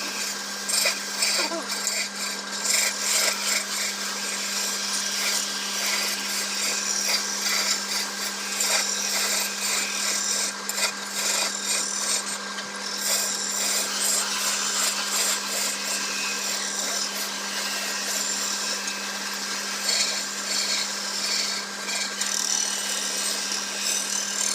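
Wood lathe running with a steady motor hum, under the continuous, uneven scraping of a turning tool cutting spinning teak.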